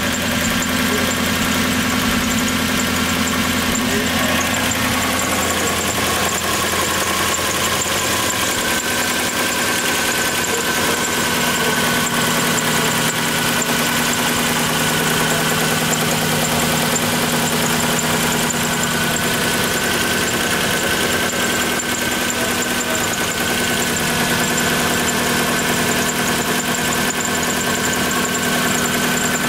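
1997 Lexus SC400's 1UZ-FE V8 idling steadily, heard at the open engine bay. About eight seconds in the deep low hum falls away, and a steady high whine stands out from then on.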